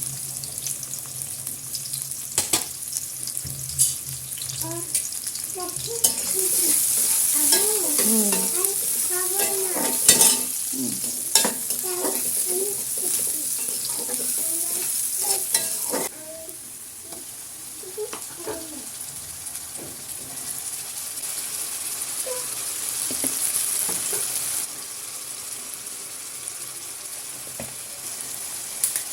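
Food frying in a pan, a steady sizzling hiss, while it is stirred with a spatula that clicks and scrapes against the pan. The sizzle grows louder about a fifth of the way in and drops off suddenly about halfway through.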